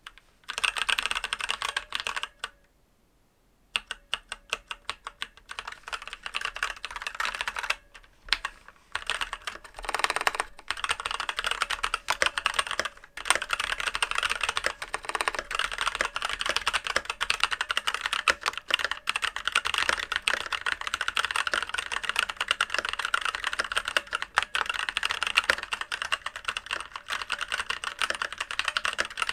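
Typing on a Keychron K8 Retro aluminium mechanical keyboard with stock brown switches, not yet lubed or foam-dampened: a fast run of key clacks with a short pause about three seconds in, growing steadier and denser from about halfway.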